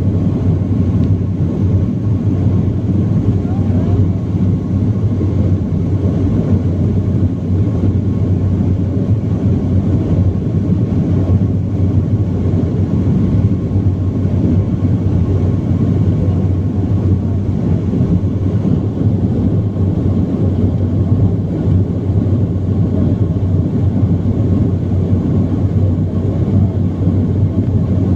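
Steady cabin drone of a BAe 146 airliner in flight: the low, even rumble of its four turbofan engines and airflow heard from inside the cabin, with a faint steady whine above it.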